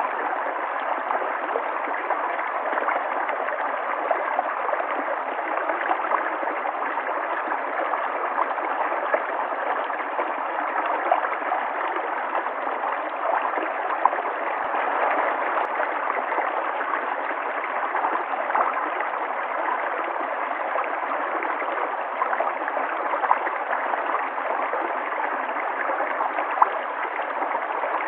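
River water flowing, a steady rush of moving water with small gurgles and splashes sprinkled through it.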